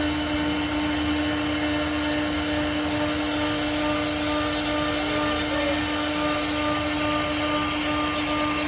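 CNC machine running steadily, a constant hum with one strong steady pitch over an even mechanical noise.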